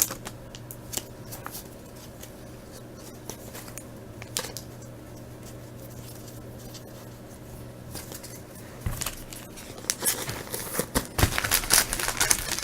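Trading cards handled quietly, with scattered faint clicks and flicks over a steady low hum; about ten seconds in, the crinkle and rustle of a card pack's wrapper being handled and torn starts up.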